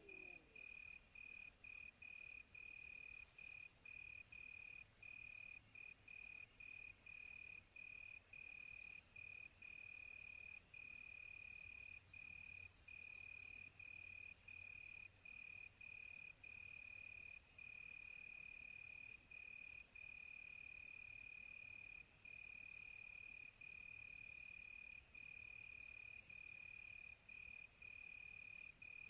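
Crickets chirping: one steady high trill broken by short, frequent gaps, over a fainter, higher hiss that swells for about ten seconds in the middle.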